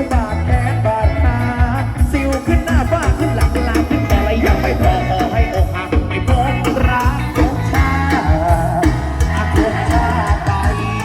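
Loud live band music from a Thai procession band: an instrumental passage with a steady, heavy bass-drum beat under a guitar and keyboard melody.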